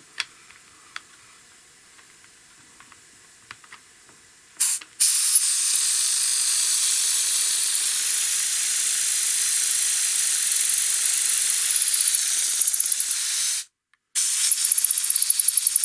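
Compressed air hissing through a small 3D-printed model air engine. It starts suddenly about five seconds in, after a few light clicks, and runs steadily. After a brief break near the end it comes back pulsing rapidly as the engine turns over.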